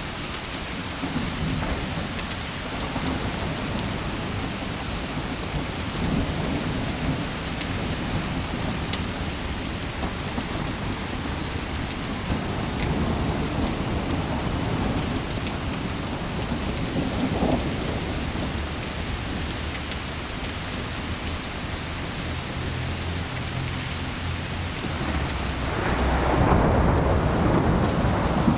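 Steady heavy rain with low rumbles of thunder rolling in now and then; the loudest rumble builds near the end.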